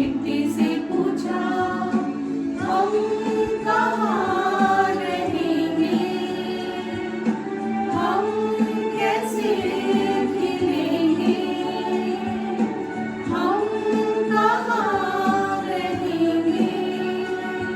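A small group of singers, women and a man, singing a song together in unison over a steady held accompanying note.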